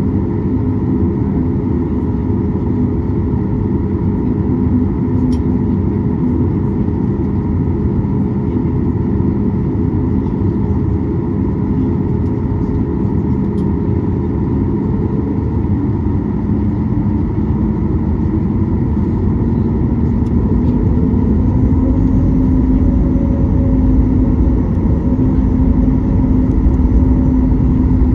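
Steady cabin noise of a Boeing 737 MAX 8 airliner, its CFM LEAP-1B turbofan engines humming over a low rumble. The engine tone steps up slightly about halfway through and again later, growing a little louder toward the end.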